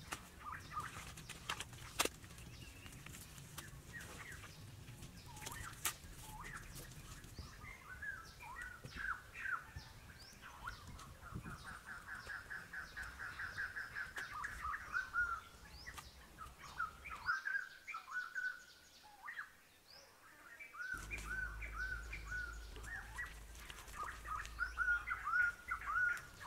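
Outdoor birdsong: birds chirping and calling with many short, repeated notes, including a fast trill around the middle. A few sharp clicks stand out over it.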